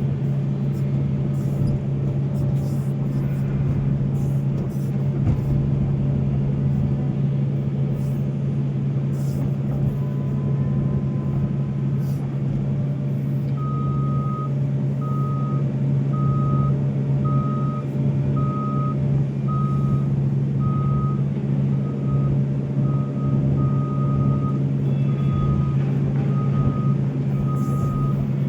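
Heavy diesel engine of a Volvo excavator running steadily under work. From about halfway through, a reversing alarm beeps evenly, roughly once every three-quarters of a second.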